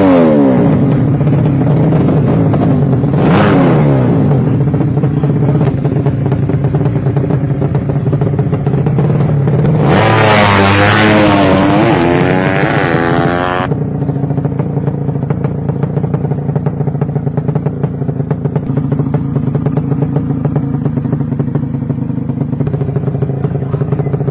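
Racing motorcycle engines, 200cc drag-race bikes, running with a steady drone and short revs near the start. A hard high-revving burst wavers up and down from about the middle and cuts off abruptly a few seconds later.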